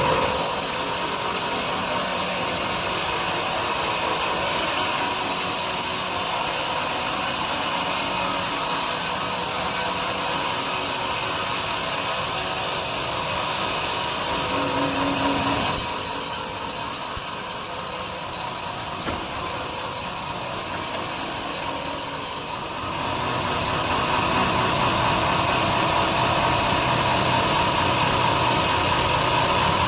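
Large sawmill bandsaw cutting through a big log, a steady loud hiss and whine. Roughly midway through, the cutting sound turns brighter and more uneven for several seconds, then settles back to the steady sound.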